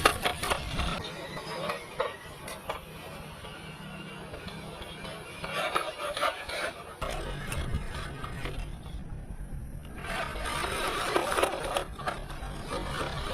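Small 1/18-scale RC crawler driving over rough ground: its electric motor and gearbox whirring while the tyres scrape and crunch over dirt and stones, with scattered clicks. The scraping drops out briefly about nine seconds in.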